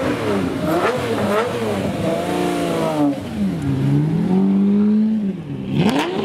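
Car engine revving repeatedly, its pitch rising and falling several times. It holds one rev steady for about a second and a half near the end, then drops and climbs again.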